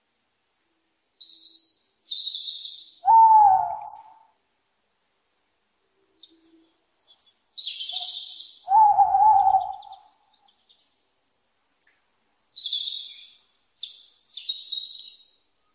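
Birds chirping in short, high bursts, in several groups with pauses between them. Two louder, lower calls with a falling then steady pitch come about three seconds in and again about nine seconds in.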